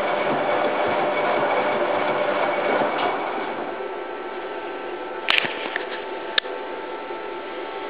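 Hoover Time Manager H130E washing machine running in its rinse stage, with a steady churning noise that drops somewhat about three seconds in. A couple of short sharp clicks follow about halfway through.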